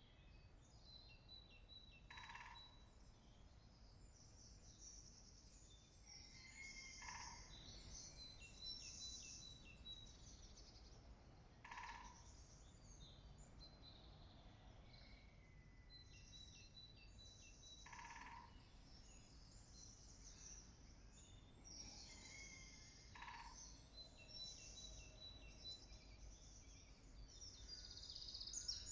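Faint woodland birdsong. A songbird repeats a high, rattling song phrase every five or six seconds, and a short, sharp single call sounds about every five seconds between the phrases.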